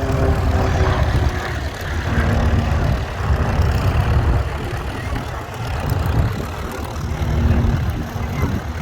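Propeller engine of a single-engine aerobatic plane flying its display. The engine note falls in pitch as the plane passes in the first second or so. After that it is a heavy, steady low rumble, with an engine tone coming back near the end.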